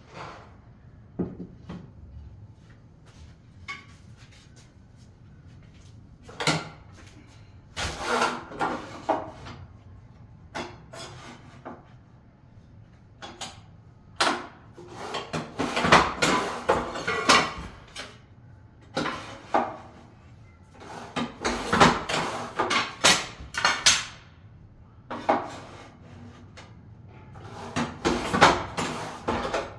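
Irregular knocks, scrapes and clatters of hand tools and hard building materials being handled during tiling repair work, coming in clusters of sharp strikes with quieter gaps between.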